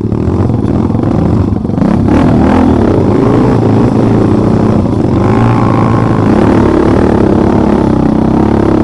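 Motorcycle engine running and revving up and down over and over, louder from about two seconds in.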